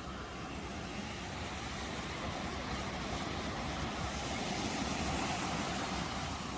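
Ocean waves washing on a shore: a steady rush of surf that swells louder a little past the middle, then eases.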